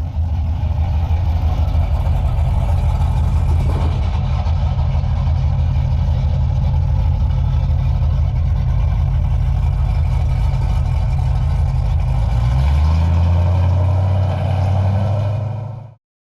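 Car engine running steadily, its pitch stepping up about thirteen seconds in as it accelerates, then cutting off abruptly near the end.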